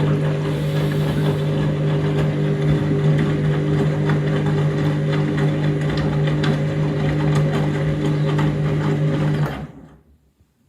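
Overloaded washing machine running loudly in its spin, a steady motor hum with a rattling clatter over it, cutting off suddenly about nine and a half seconds in.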